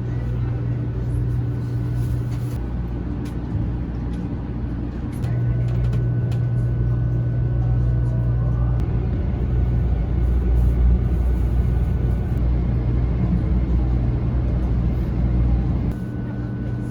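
Shinkansen bullet train running, heard from inside the passenger cabin: a steady low rumble with a faint high whine. It grows louder about five seconds in and drops back near the end, with a few light clicks.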